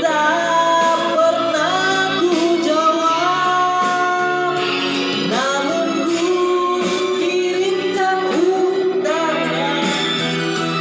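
A song: a solo voice singing a melody with long held notes, over instrumental accompaniment that includes guitar.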